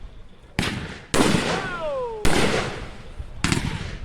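Consumer fireworks cakes firing, two Watermelon Moonshine 200-gram cakes lit together. About four sharp bangs come a second or so apart, each dying away, and a whistle falls in pitch midway through.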